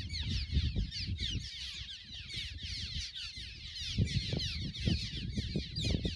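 A colony of cliff swallows calling, a dense chatter of many quick, squeaky, falling chirps overlapping one another, over a low rumble.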